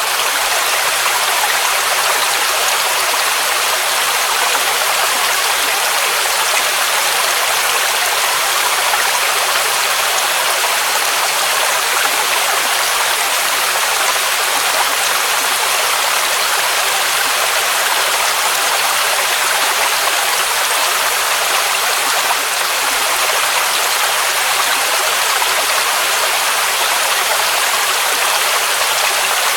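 Waterfall on a mountain cascade: a steady, loud rush of falling water, an even hiss with little low end and no change.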